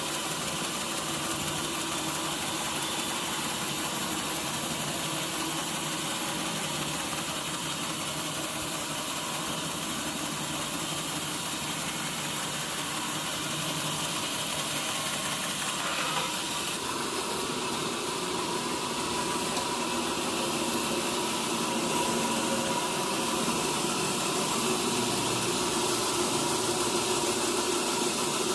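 Sawmill machinery running steadily with an engine-like hum. Its tone shifts about halfway through and it grows a little louder toward the end.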